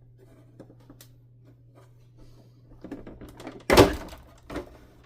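Plastic housing of a Hoover Dimension 1000 canister vacuum being handled as it is split apart, with small clicks and rattles, then one loud hollow thunk a little under four seconds in and a smaller knock about half a second later. A faint steady low hum runs underneath.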